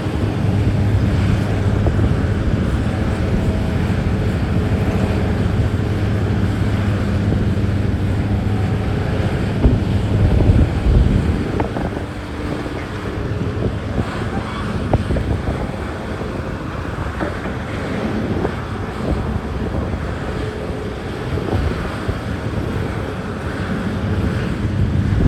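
Heavy diesel mining machinery running: a steady low engine drone that eases off about halfway through, with a few knocks and wind buffeting the microphone.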